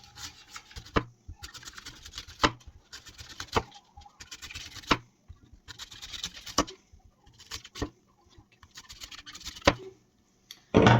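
Small axe chopping apples into pieces: a sharp knock every second or two, with rustling and scraping between the strokes and the loudest knock near the end.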